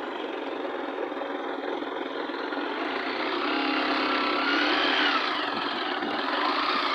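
A vehicle's engine running with a steady rush of road or wind noise.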